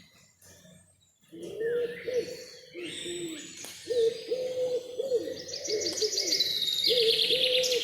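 A bird's low hooting calls, repeated almost without pause after about a second of quiet, each one dipping in pitch at the end. From about halfway through, a small songbird's fast high trill joins them.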